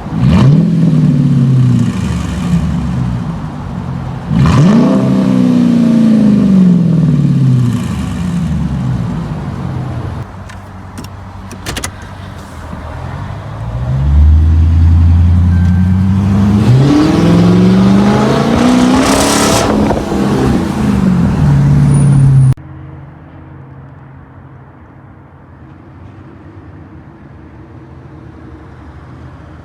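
Straight-piped Dodge Charger R/T Pursuit's 5.7-litre Hemi V8 being revved through its muffler-less exhaust: a few rising and falling blips, then a long high rev. Near the end the sound cuts off suddenly to a much quieter steady engine sound.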